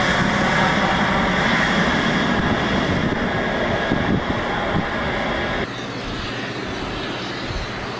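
Airliner engines running steadily, with a thin high whine over the noise. About two-thirds of the way through, the sound drops suddenly to a quieter engine noise.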